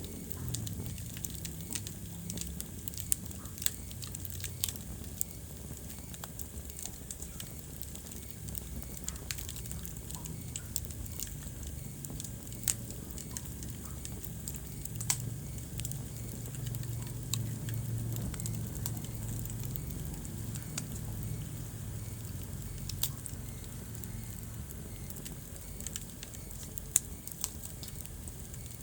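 Wood fire burning in a fireplace, crackling with sharp pops scattered irregularly over a low, steady rumble of flames.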